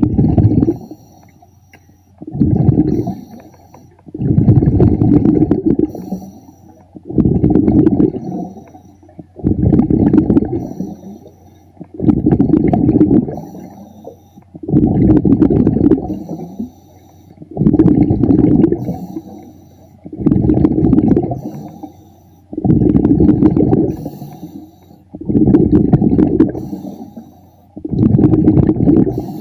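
A diver breathing underwater through a regulator: bubbling, rumbling bursts of exhaled air, each about a second long, coming in an even rhythm about every two and a half seconds.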